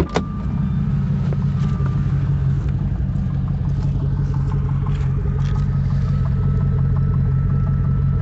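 2003 Jaguar S-type R's supercharged 4.2-litre V8 idling steadily, with a few sharp clicks at the start, getting louder about half a second in and then holding even.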